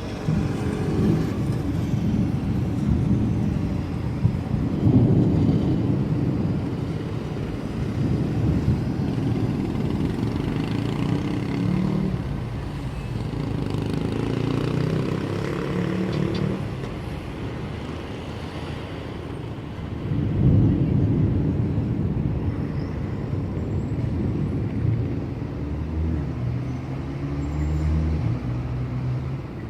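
Road traffic: vehicles passing one after another, their engines and tyres swelling and fading, with a low engine drone near the end.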